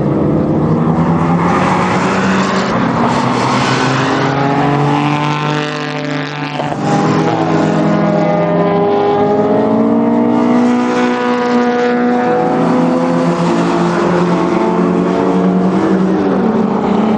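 Car engines revving on a track, their pitch climbing and dropping back repeatedly as they accelerate and change gear, with several engine notes overlapping. The sound dips briefly about six seconds in.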